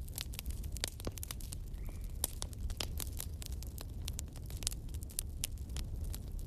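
Fireplace fire crackling, with many sharp, irregular pops over a steady low rumble.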